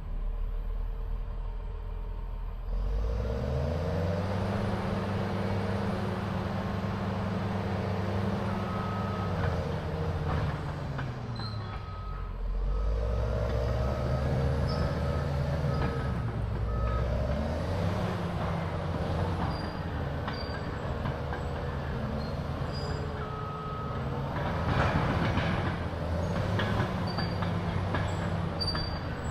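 Caterpillar D6R dozer's C9 diesel engine working under load. It rises to working revs about three seconds in, drops off around ten to twelve seconds, and climbs again, with short high beeps from time to time and a loud clatter about twenty-five seconds in.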